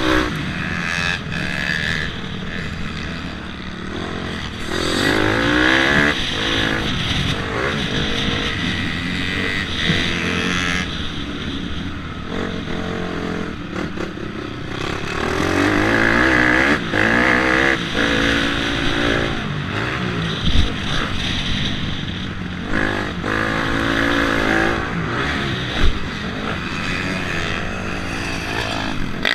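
Motocross dirt bike engine revving hard and easing off again and again, its pitch climbing and dropping as it shifts through the gears, under a steady rush of wind and noise. A couple of sharp knocks come about two-thirds of the way through and near the end.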